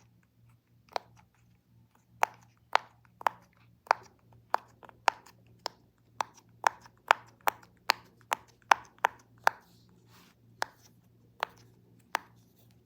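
Silicone pop-it fidget toy being popped one bubble at a time: a string of short sharp pops, roughly two a second and quicker in the middle.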